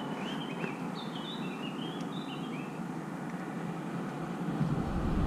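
A bird chirping a quick string of short high notes over a steady outdoor background hiss. Near the end a low rumble swells as a vehicle approaches.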